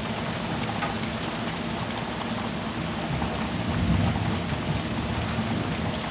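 Steady rain falling and splashing on surfaces, with a low rumble of distant thunder swelling briefly about halfway through.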